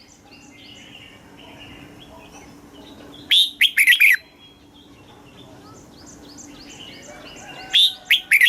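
Red-whiskered bulbul singing: two loud phrases of quick, gliding whistled notes, about three seconds in and again near the end, with fainter short chirps between them.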